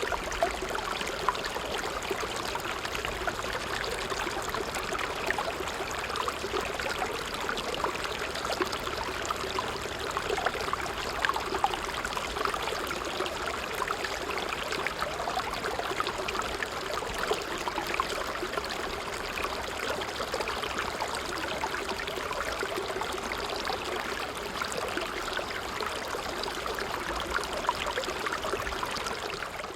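A stream running steadily, a continuous babbling rush of water with many small trickles and droplet splashes through it.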